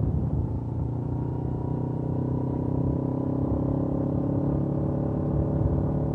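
Suzuki GS500F's parallel-twin engine running at steady revs through its stock exhaust, an even note that settles in about half a second in.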